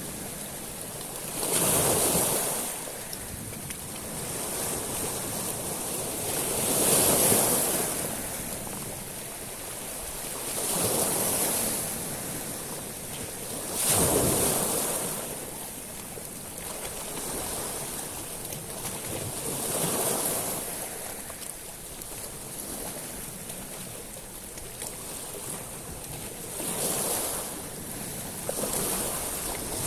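Sea waves washing up a beach of small pebbles. About seven surges come every three to six seconds, each one swelling into a hiss and then drawing back over a steady wash.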